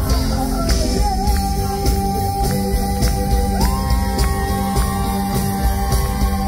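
Live band playing a 1980s French pop-rock song with a steady beat, held synth or guitar notes and a long sustained lead note that steps up in pitch about halfway through.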